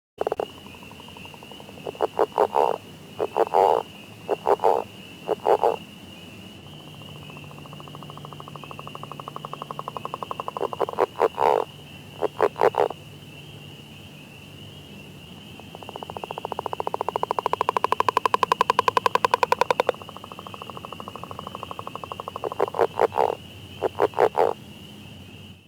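Frogs calling: short bursts of rapid pulsed croaks and two long rattling pulsed calls that build in loudness and stop abruptly, over a steady high-pitched chorus of more distant frogs.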